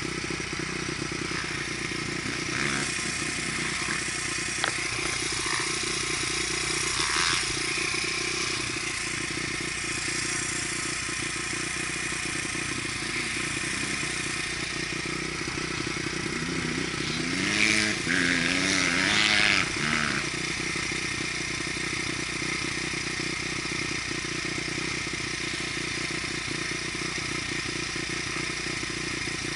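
Dirt bike engine running steadily. About two-thirds of the way through there is a louder stretch of two or three seconds where the revs rise and fall.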